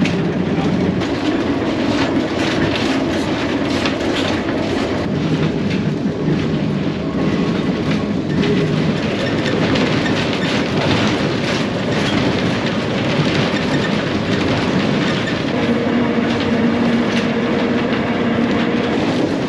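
Manx Electric Railway electric tram running along the line, its wheels clicking steadily over the rail joints under continuous rolling noise. A steady hum comes in near the end.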